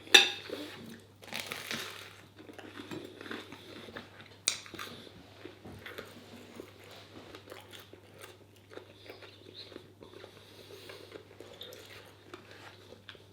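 A person eating close to the microphone: bites, crunching and chewing, with a sharp knock right at the start and another about four and a half seconds in. A low steady hum runs underneath.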